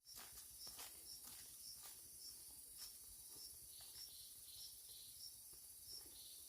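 Faint outdoor insect sounds: a steady high buzz with a short high chirp repeating about every half second, and a few soft clicks.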